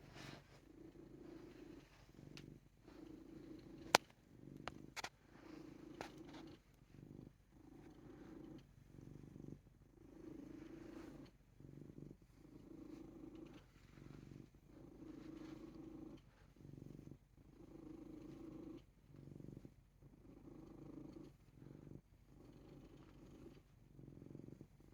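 Ragdoll cat purring softly in even, breath-by-breath pulses a little over a second apart, contented while being brushed. A few sharp clicks about four and five seconds in.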